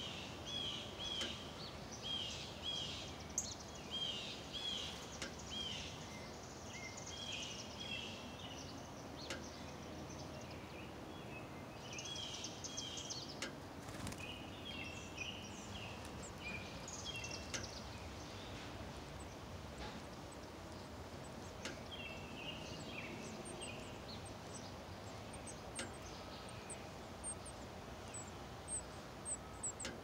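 Birds chirping in bouts of short, repeated high notes, about two a second at the start and returning several times, over a steady background hiss.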